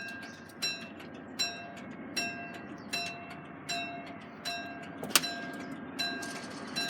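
Level crossing warning alarm sounding, an evenly repeated ringing tone about four strikes every three seconds, over a low rumble. A single sharp, loud crack comes about five seconds in.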